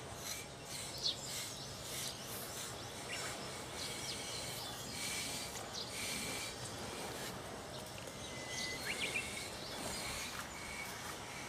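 Outdoor ambience: scattered short bird chirps over a steady low background noise.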